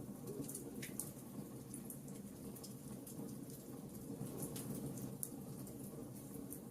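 Wood fire burning in a fireplace: a steady low rumble of flames with scattered small, sharp crackles and pops.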